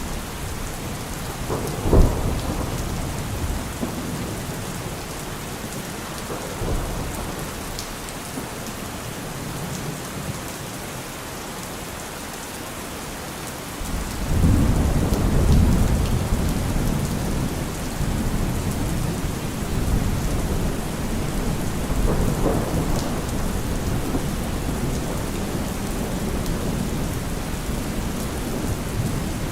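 Heavy rain falling steadily on a car roof, with thunder: a sharp crack about two seconds in, and a long low rumble of thunder that breaks in about halfway through and slowly fades.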